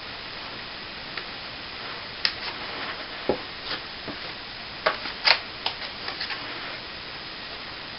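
Plasterer's steel trowel scraping and tapping as it works wet cornice cement, with irregular short clicks and scrapes over a steady hiss. The sharpest tap comes about five seconds in.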